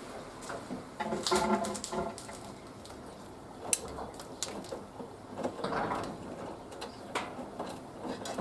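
Panasonic washing machine on its wool cycle, with the drum motor gone quiet. Wet laundry and water slosh irregularly, with scattered light clicks and knocks.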